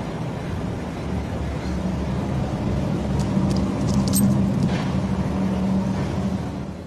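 A motor running with a steady low drone that slowly grows louder, with a few faint clicks about halfway through.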